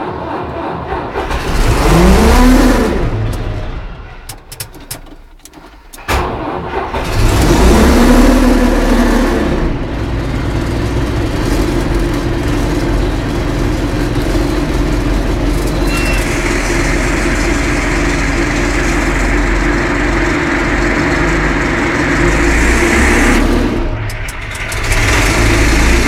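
MB trac tractor's diesel engine running cold after a start at −25 °C: it is revved up twice, with the revs and level falling nearly away in between and a sharp click about six seconds in, then runs steadily, with a brief drop and recovery near the end.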